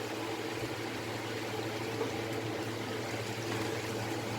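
Chicken pakoras deep-frying in hot oil in a kadai: a steady sizzle without a break.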